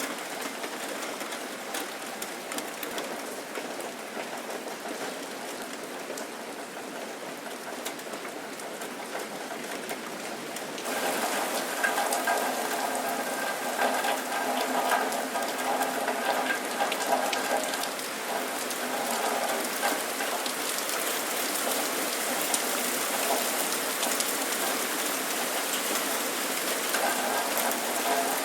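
Rain falling steadily, a dense patter of drops. About eleven seconds in it suddenly turns louder and brighter, and a few faint steady tones run under it from then on.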